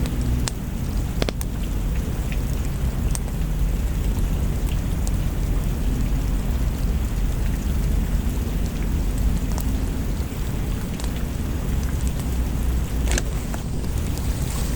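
Rain and fireplace ambience: a steady rain with a deep low rumble under it, and a few sharp crackles scattered through, one louder near the end.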